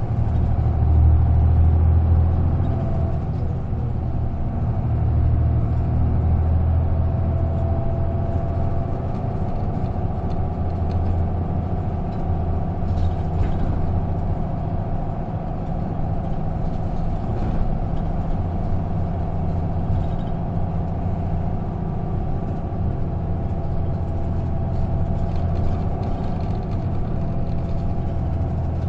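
Isuzu KK-LR233J1 non-step bus heard from inside the cabin while under way: a steady low diesel engine hum with road noise. It is loudest for the first few seconds, then eases to an even running level.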